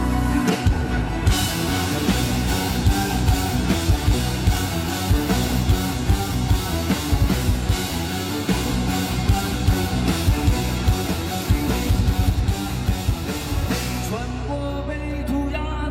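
Live rock band playing an instrumental passage: drum kit beating fast with cymbals over distorted guitars and bass. Near the end the drums and cymbals drop out, leaving held chords.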